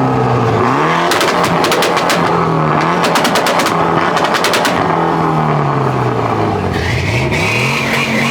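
A car engine being revved hard again and again, its pitch climbing and dropping, with two rapid runs of exhaust pops and crackles on the revs, the bangs of a car set up to shoot flames. A steady high squeal joins near the end.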